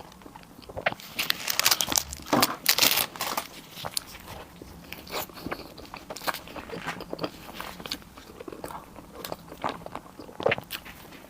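Close-miked eating: a person biting and chewing food with crunchy bites and crackles, thickest in the first few seconds and lighter after.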